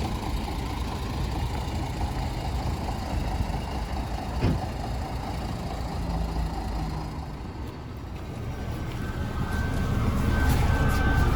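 Mercedes-Benz O307 city bus heard from inside while under way: steady diesel engine and road rumble, with a single knock about four and a half seconds in. Near the end the noise dips briefly, then grows louder again, and a steady high whine joins it.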